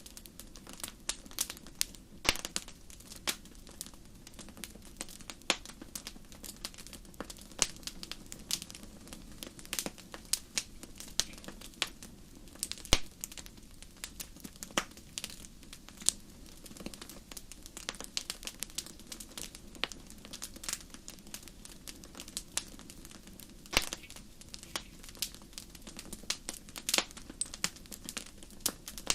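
Wood fire crackling in a fireplace: irregular sharp pops and snaps, sometimes several a second, over a low steady rush of the flames.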